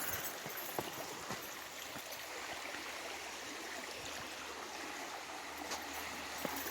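Small stream running steadily, with a few faint clicks over it.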